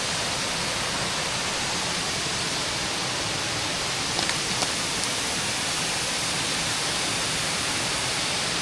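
Waterfall rushing steadily, with two faint clicks about four seconds in.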